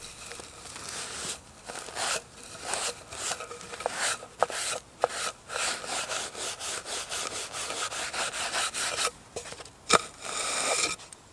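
Hand tool cutting wood in a run of scraping strokes, about two a second, then a sharp click and one last short scrape near the end.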